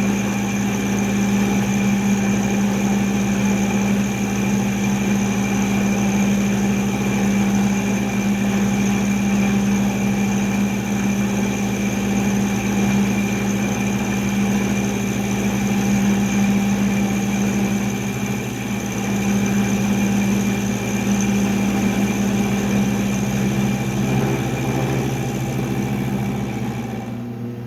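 Milling machine running steadily with an end mill taking a cut along a V groove in a metal block, a steady motor whine under the rougher noise of the cut. It dies down near the end as the cut finishes.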